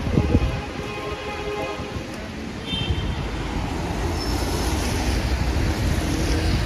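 Wet city street ambience: a steady low rumble of traffic with wind on the microphone, and a louder hiss building in the second half as a vehicle passes on the wet road.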